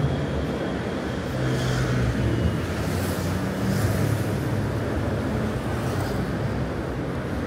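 City street traffic: vehicle engines running with a steady low hum, and a few brief hissy noises over it.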